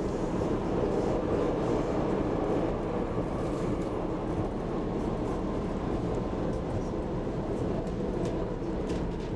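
Interior running noise of an SL X10 electric commuter train at speed: a steady rumble of wheels on the rails, with a few faint clicks near the end.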